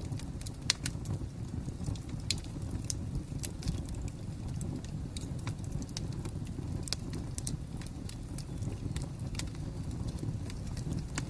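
Wood fire crackling: irregular sharp pops and snaps over a steady low rumble, with the sharpest pop about a second in.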